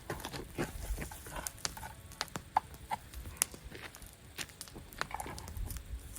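Campfire burning with irregular crackles and sharp snaps, one louder pop about two and a half seconds in, over a low rumble.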